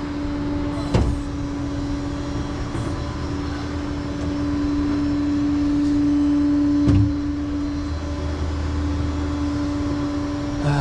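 Tow truck driving, heard from inside the cab: a steady whine grows louder and then drops away about eight seconds in, over a low drone, with two sharp clunks about six seconds apart.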